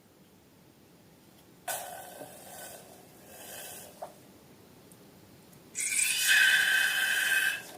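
Air rushing out of a balloon twice: a softer hiss first, then a louder, longer release with a steady high-pitched squeal from the stretched neck.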